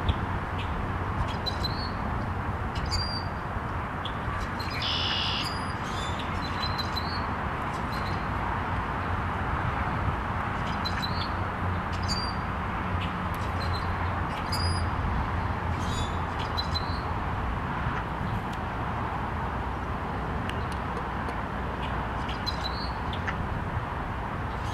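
Short, high bird chirps every few seconds, with one longer, louder call about five seconds in, over a steady background hiss and low hum.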